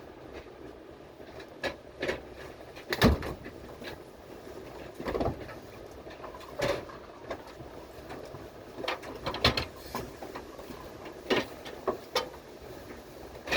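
Inside a moving train carriage: a steady running rumble with irregular knocks and clunks every second or so, the loudest about three seconds in.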